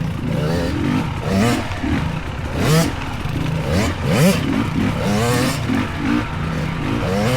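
Small dirt bike engines revving up and down over and over as the bikes work along tight single track.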